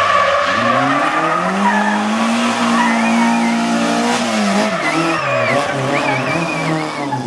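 Hillclimb race car engine revving up, holding high revs, then dropping off about four seconds in and going on at changing revs. Thin wavering squeal from the tyres is heard in the second half.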